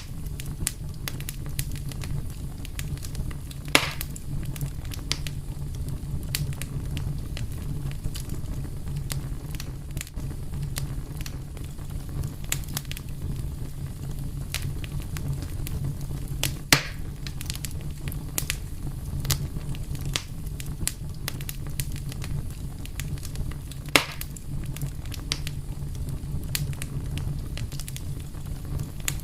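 Wood fire burning with a steady low rumble and frequent small crackles, with three louder pops, about 4, 17 and 24 seconds in.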